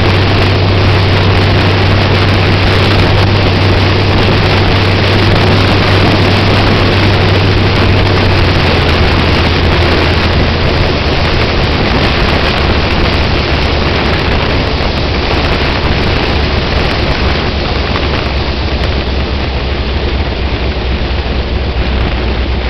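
Sprint car's V8 engine with open velocity-stack injection running at low, steady revs while driving, buried in heavy wind noise on the microphone. Its low note steps down twice, about a third of the way in and again past the middle.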